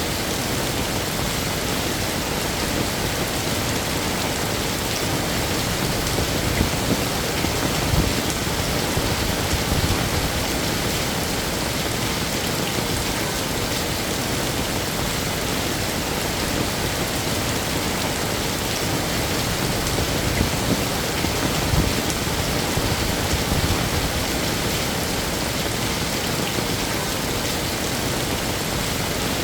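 Heavy rain falling steadily, a dense even hiss of drops striking hard surfaces.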